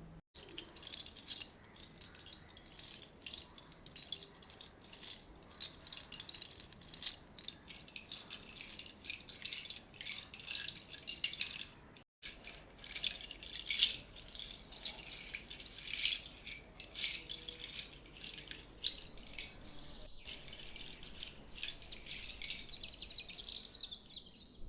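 A shaker rattled in irregular bursts of fine, high rattling, cutting out briefly about halfway. Small bird-like chirps join near the end.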